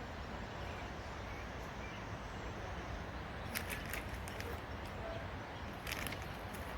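Steady outdoor background noise with a low rumble, broken by a few short crackles, a pair about three and a half seconds in and another near the end.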